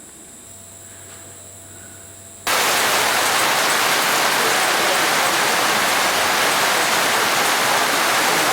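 A chorus of insects keeps up a faint, steady high-pitched drone. About two and a half seconds in it cuts off abruptly into a loud, steady hiss of noise with no pitch, like heavy rain or rushing water, which lasts to the end.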